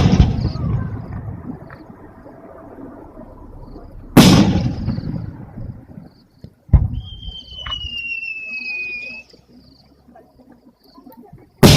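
Aerial fireworks bursting: sharp booms about four seconds in and again a little before seven seconds, each trailing off in a decaying echo. After the second boom comes a high whistle that slowly falls in pitch for about two seconds, and another boom lands at the very end.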